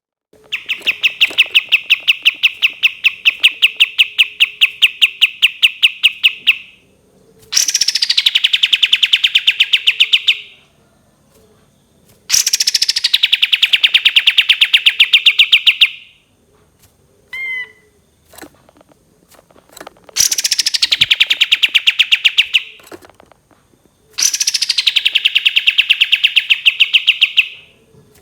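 Kapas tembak bird singing its long rapid trills: five fast, evenly pulsed trills of about three to six seconds each, each opening higher and settling lower, with short pauses and a few brief chirps between them.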